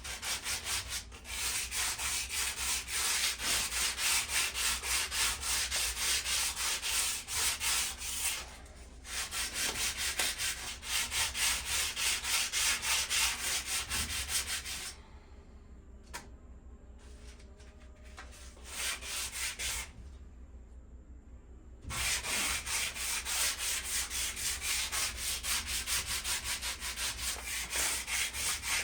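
Sandpaper scrubbing surface rust off the edge of a metal patio table, in quick, even back-and-forth strokes. It breaks off briefly about 9 s in and drops to a quieter, sparser rubbing from about 15 s to 22 s before going on at full strength.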